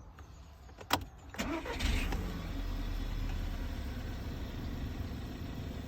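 Volkswagen Golf engine starting: a sharp click about a second in, then the engine catches, flares up briefly and settles into a steady idle.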